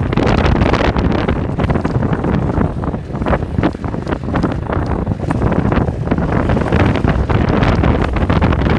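Heavy wind buffeting on the microphone: a loud, rough, fluctuating rush of noise with no speech.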